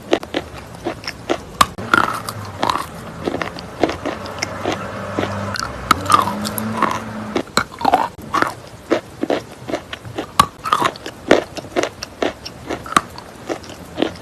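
Close-miked biting and chewing of natural chalk: wet crunching, with many short sharp crunches in quick succession.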